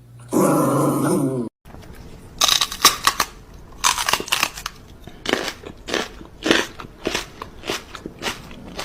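A short pitched animal call, then, after a cut, an animal chewing something hard: a long run of loud, crisp crunches, about one to two a second.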